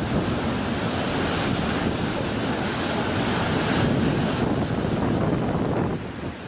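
Storm wind buffeting the microphone over rough, breaking seas: a loud, steady rush of wind and water noise.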